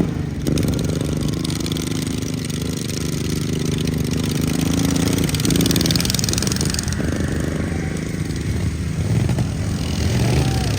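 Racing lawn mower engine running steadily, its pitch shifting a few times as the throttle changes.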